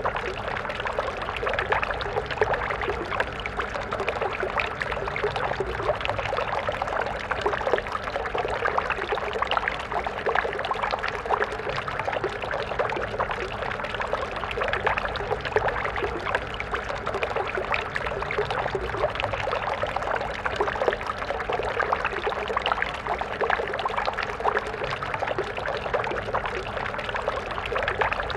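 Stream water flowing steadily over stones, a continuous bubbling, splashing rush.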